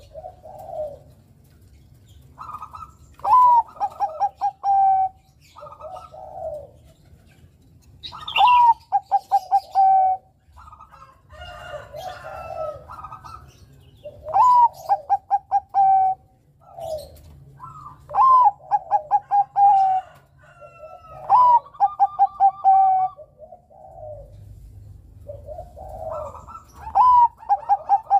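Zebra dove (perkutut, Bangkok strain) singing: about six song phrases, each a rising coo followed by a quick run of short clipped coos, with softer, lower coos between the phrases.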